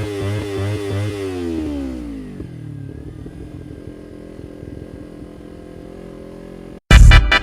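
Kawasaki Ninja 300 parallel-twin engine running under way with its pitch wobbling slightly, then the revs fall away about two seconds in and it settles to a low, quieter idle. Loud electronic music cuts in just before the end.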